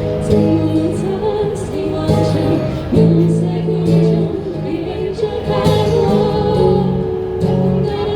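A band playing a song live, with a singer's voice over held bass notes that change about once a second.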